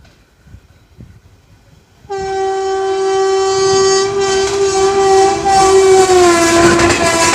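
Indian Railways locomotive horn sounding one long blast that starts suddenly about two seconds in, its pitch dropping slightly near the end as the train passes, over the rising noise of the train on the track.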